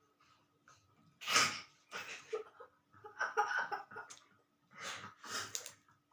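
Close-miked chewing and mouth sounds of a person eating, in a run of short wet bursts with breaths between them.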